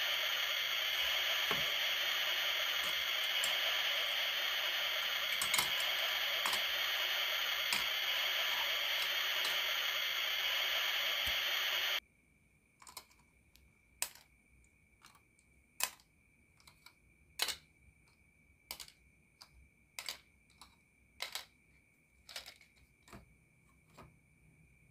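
Toy barbecue grill with a mist effect giving a steady hiss that cuts off suddenly about twelve seconds in. After it stops, plastic toy food skewers and tray are handled with light clicks and taps, roughly one every second or so.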